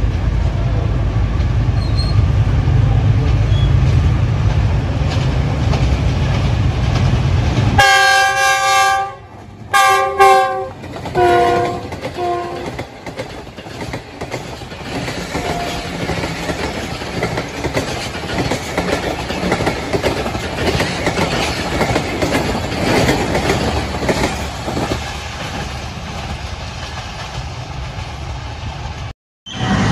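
Passenger train passing: a diesel locomotive's deep rumble, then four horn blasts, the last two lower in pitch. The coaches then roll by with a steady clickety-clack of wheels over rail joints.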